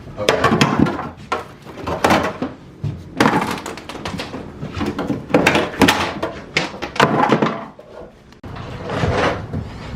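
Irregular knocks, bangs and scrapes of demolition work: interior fittings being pried loose and broken out of a coach bus.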